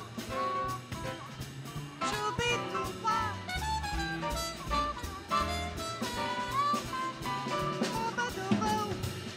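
Live jazz combo of trumpet, piano, bass and drum kit playing an instrumental passage of a swing tune, with no singing: melodic lines that bend in pitch over a steady beat and walking low bass notes.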